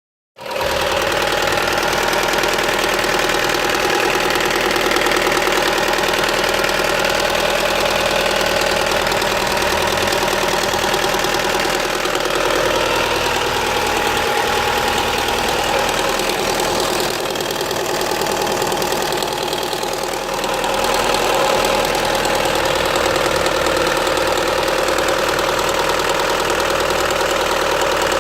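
Opel Astra H's 1.6-litre Z16XEP four-cylinder petrol engine running steadily, with an unusual noise that the owner places in the rear area and links to a loss of power. The sound eases slightly a little past the middle and comes back up.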